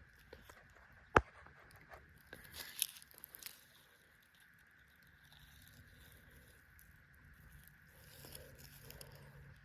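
A single sharp click about a second in, then a few seconds of faint crackling and rustling, like handling of fishing gear close to the microphone; otherwise faint outdoor background.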